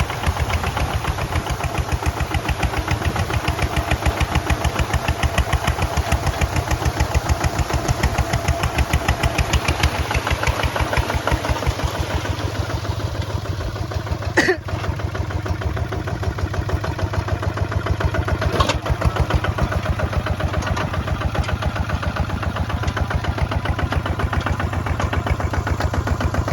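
Kubota ZT 155 single-cylinder diesel engine running steadily with an even, rapid knocking beat. A sharp click comes about halfway through and a fainter one a few seconds later.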